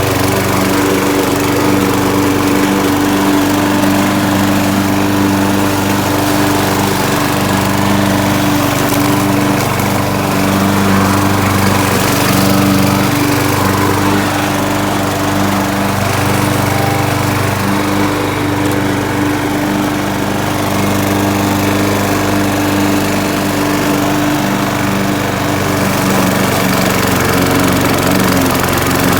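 Gasoline lawn mower engine running steadily at a constant pitch while mowing grass.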